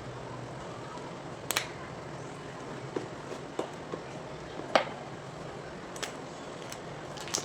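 Gym chalk being twisted and crushed by hand, giving scattered sharp cracks and crunches. There are about seven in all, the loudest a little past the middle, over a steady background hiss.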